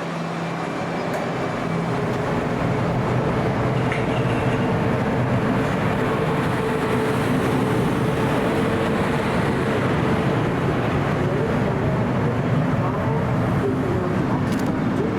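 Electric locomotive hauling a passenger train, its running noise swelling over the first couple of seconds and then holding steady with a held hum, and a few sharp clicks near the end.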